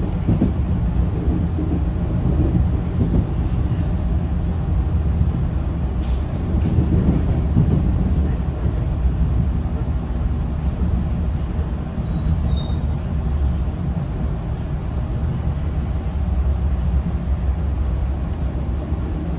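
Steady low rumble of a Metro-North passenger train running along the Danbury Branch, heard from inside the coach.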